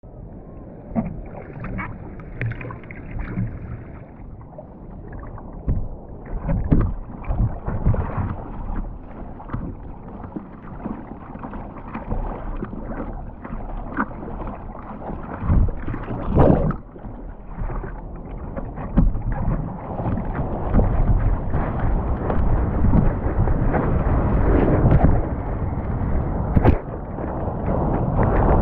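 Skis rushing and hissing through snow with wind buffeting the camera microphone, broken by frequent thumps and knocks; the rushing grows louder toward the end.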